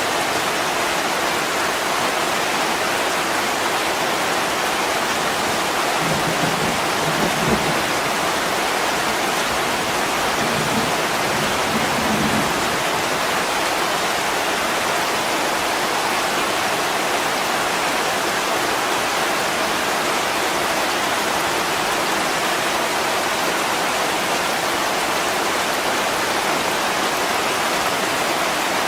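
Heavy rain pouring steadily onto a window pane, an even hiss with no let-up. Two brief low rumbles come through, about six and ten seconds in.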